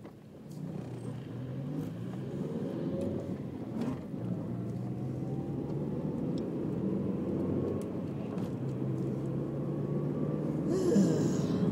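Car engine and road rumble heard from inside the cabin as the car pulls into a gap in traffic and accelerates, the engine note climbing, dipping briefly about eight seconds in, then climbing again. A short hiss near the end.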